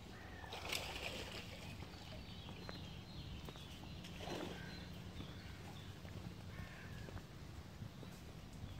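Small birds chirping and calling faintly here and there over a quiet outdoor background with a faint steady low hum.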